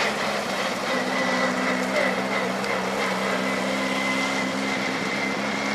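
Mk2 Ford Escort rally car's engine idling at the start line, holding one even pitch with no revving. A thin steady high tone runs above it.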